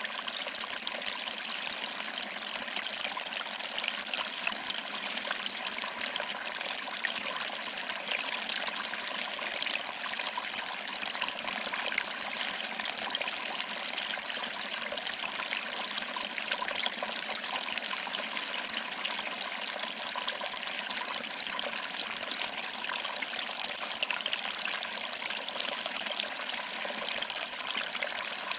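Small waterfall trickling over rocks and splashing into a pool: a steady, even rush of water.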